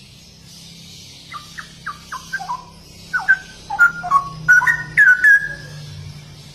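Straw-headed bulbul (cucak rowo) singing a phrase of short whistled notes that jump and drop in pitch, growing louder and ending on a longer held note. A steady high hiss runs underneath.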